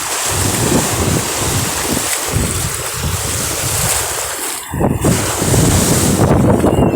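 Sea waves washing in, with wind blowing across the microphone. The rush dips briefly about five seconds in, then comes back louder and heavier.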